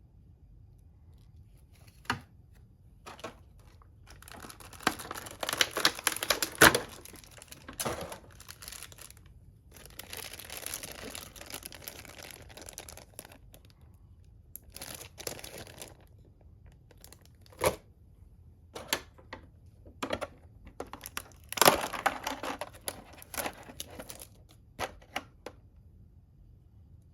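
Packaging being unwrapped by hand: three longer stretches of rustling and tearing, with a few sharp clicks and knocks between them.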